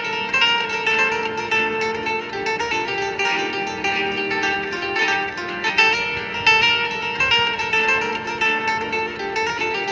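Background music: fast plucked acoustic guitar in a flamenco style.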